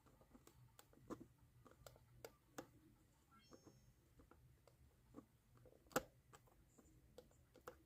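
Near silence broken by faint, scattered small clicks and taps from hands handling tiny roof shingles and tools, with one sharper click about six seconds in.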